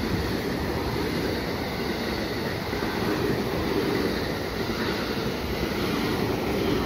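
JR West electric multiple-unit train running past the platform at speed, a steady rush of wheel and running noise that starts to fade near the end.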